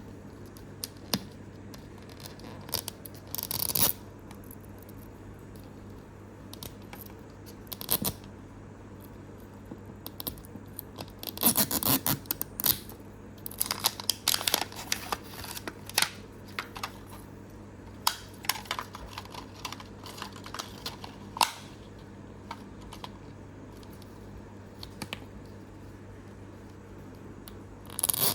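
Plastic toy capsule and its blind-bag packaging being handled and opened by hand: scattered crinkles, clicks and short tearing sounds, busiest around the middle, with a louder tear near the end.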